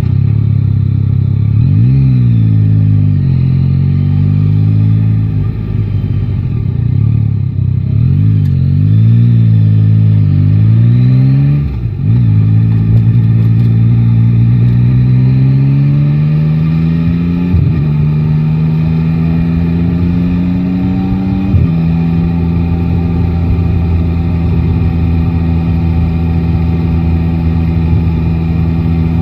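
Yamaha Tracer 9 GT's 890 cc inline-three engine pulling away and accelerating up through the gears. The revs climb, then drop sharply at each of three upshifts, and the engine settles to a steady cruise for the last several seconds.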